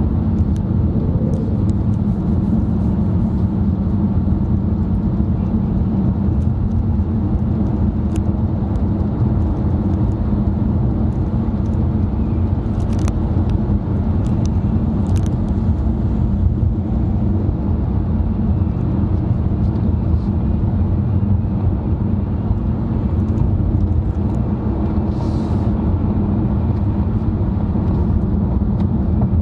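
Car running at a steady cruise, heard from inside the cabin: a constant low rumble of engine and road noise.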